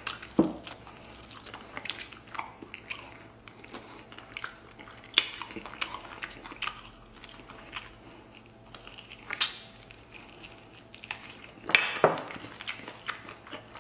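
Close-miked eating sounds: a person chewing and biting into braised fatty pork, with irregular mouth smacks and clicks and a louder burst of chewing near the end.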